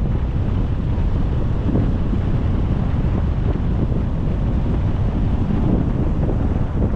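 Steady low rumble of wind buffeting the microphone, mixed with road noise from a car driving.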